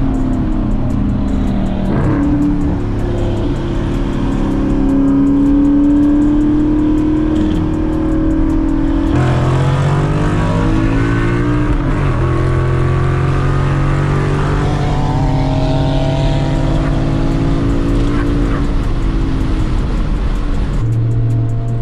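Ford Mustang GT's 5.0 V8 through a loud aftermarket exhaust, accelerating hard. The engine note climbs, drops sharply at a gear change about nine seconds in, then climbs again.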